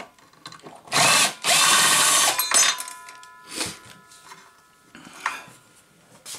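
Power drill running in two short bursts about a second in, then light clicks and knocks of parts being handled.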